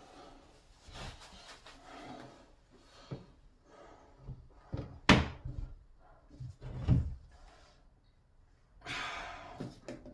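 Knocks and thumps of hands-on work in a small room: a sharp knock about five seconds in, dull thumps about two seconds later, and a short rasping, scraping sound near the end.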